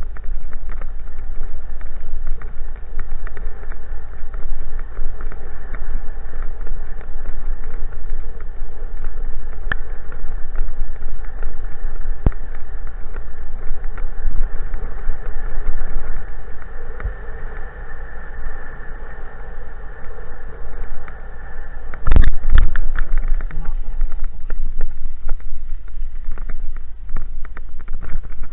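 Wind buffeting the microphone of a camera riding along on a bike, a continuous deep rumble with a faint steady hum above it. About three quarters of the way through comes a short, loud knock, like a jolt to the bike or camera.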